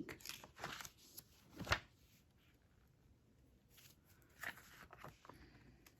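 Paper pages of a recipe binder being turned and handled: a few short soft rustles, a sharp click about a second and a half in, then more faint rustling near the end.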